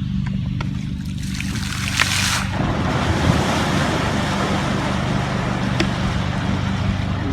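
A boat motor hums steadily while water splashes loudly about two seconds in, followed by a continuous rush of churning water.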